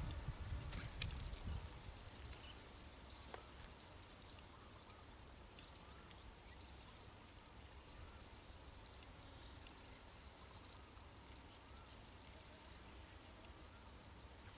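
Faint, short high-pitched chirps repeating about once a second over a thin steady high hum, typical of an insect calling. Low wind rumble on the microphone in the first couple of seconds.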